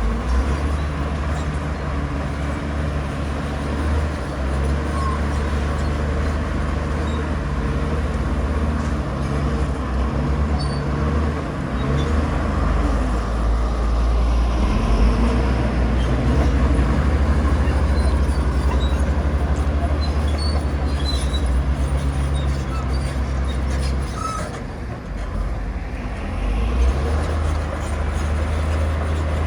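Heavy diesel earthmoving machinery running, a steady deep engine drone that eases briefly about three-quarters of the way through and then picks up again.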